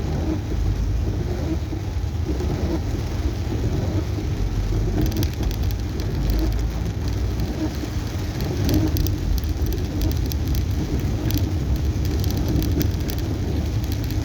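Inside a moving car in heavy rain: steady low rumble of the engine and tyres on a wet road. From about five seconds in, scattered raindrops tick sharply on the car.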